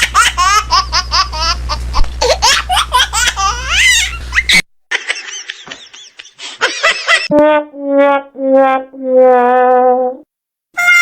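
Comedy sound effects: about four and a half seconds of quick, high, rising laughter, then, after a short break and a brief chirpy passage, a sad-trombone "wah-wah-wah-wahhh" of four falling brass notes, the last one held longest.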